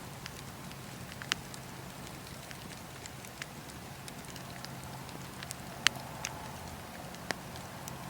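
Wood fire crackling in a fireplace: a steady low rumble and hiss of flames with sharp pops every second or two, the loudest about six seconds in.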